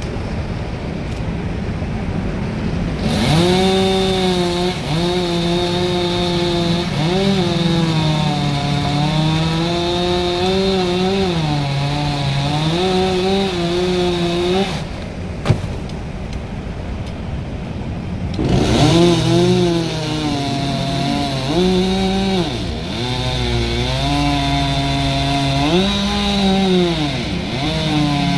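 Chainsaw cutting through a large tree trunk, its engine pitch dropping as the chain bogs in the wood and rising again as it frees. It cuts for about twelve seconds, pauses briefly, then resumes about two-thirds of the way in.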